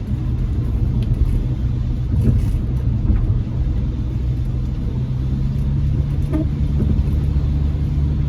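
Car engine and road noise heard from inside the cabin: a steady low rumble and hum.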